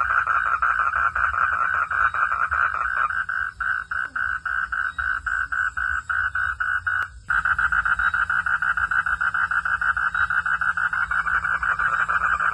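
Frogs calling in a dense chorus, a fast, even pulsing at about five pulses a second. The sound cuts out abruptly for a moment about seven seconds in, then resumes.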